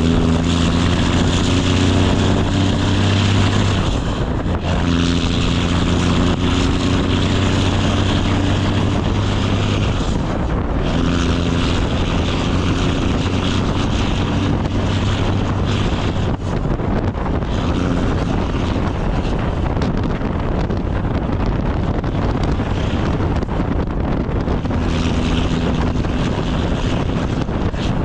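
Straight-piped Cummins ISX diesel engine of a Kenworth W900 semi truck running loud under load. Its note breaks off briefly several times and picks up again.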